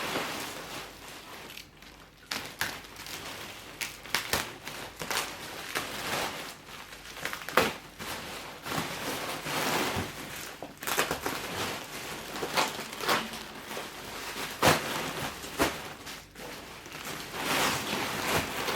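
Packaging crinkling and rustling, broken by irregular clicks and knocks, as an exhaust muffler is unwrapped and handled.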